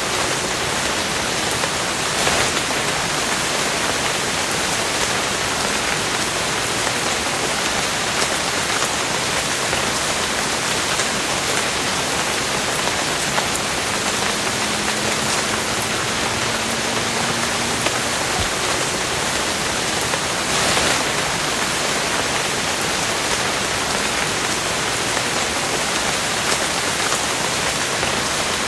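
Steady rain falling, an even hiss with scattered drops ticking on surfaces and a couple of brief louder gusts.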